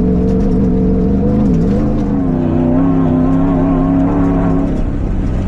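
Prerunner truck engine running hard under throttle on sand dunes, its pitch dipping briefly about a second and a half in and then climbing again, easing off near the end.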